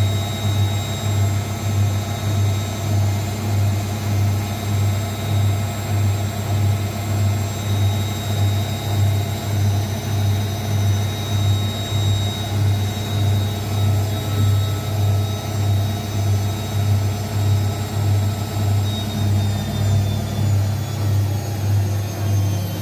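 Zanussi ZWSE680V front-loading washing machine in its final spin: a steady low drum hum pulsing evenly, with a thin high motor whine that starts to fall in pitch near the end as the spin begins to slow. The drum runs on freshly repaired shock absorbers.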